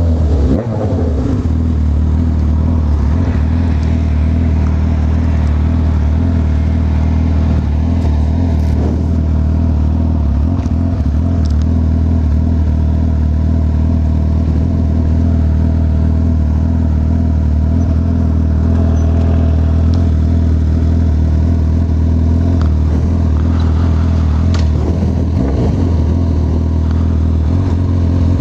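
Honda CB1000R's inline-four engine running steadily at an even pitch while riding.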